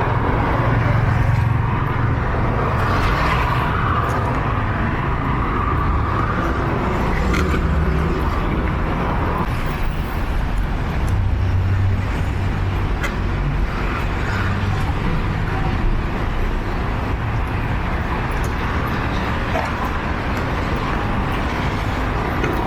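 Steady city street traffic: cars and other vehicles running and passing, with a low engine rumble that swells and fades.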